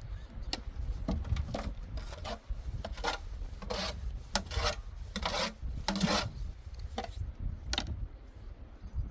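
A series of short rasping, scraping strokes, about a dozen at an uneven pace, over a steady low rumble.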